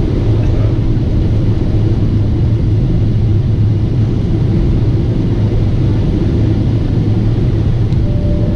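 Steady low rumble of a Boeing 747-8 jet airliner in flight: engine and airflow noise, even throughout.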